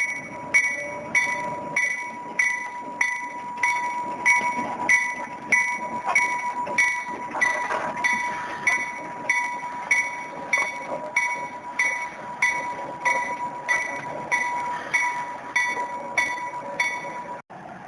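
Locomotive bell ringing steadily at about two strikes a second, over a steady high-pitched tone; the ringing stops abruptly near the end.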